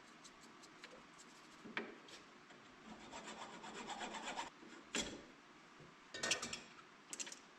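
Faint hand work on a battery cable and its terminal: soft rubbing and scraping, with a few sharp clicks and knocks.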